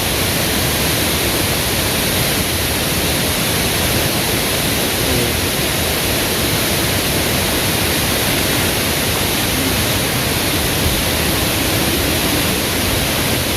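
Waterfall: a steady rush of falling water, loud and unbroken.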